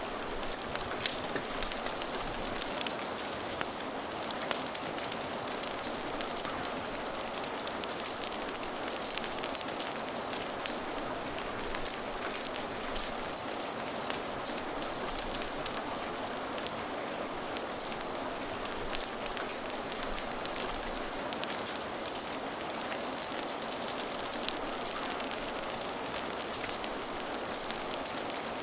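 Steady rain with a wood fire crackling, a continuous hiss broken by scattered sharp pops and ticks, a few louder ones in the first seconds.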